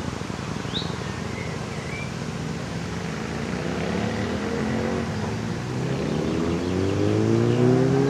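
An engine speeding up, its pitch rising steadily and growing louder over the second half. A bird chirps a few times about a second in.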